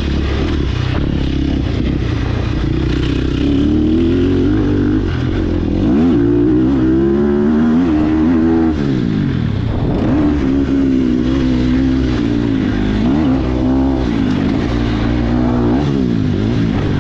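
Sherco SEF300 four-stroke single-cylinder enduro motorcycle engine being ridden hard, revving up and down again and again as the throttle opens and shuts. The pitch falls off sharply about nine seconds in, then climbs again.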